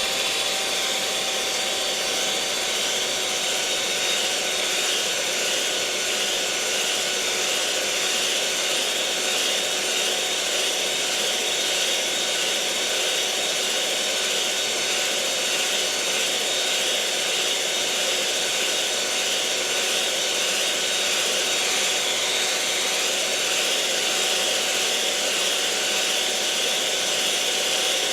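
Electric kitchen mixer running steadily at one speed: a continuous motor whine with a few fixed tones over a hiss.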